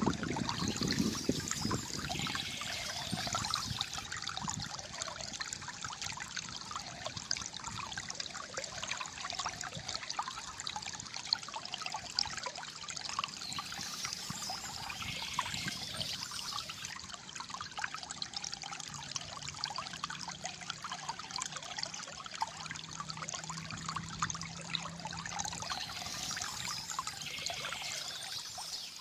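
Shallow water flowing steadily, with a continuous gurgling, trickling sound.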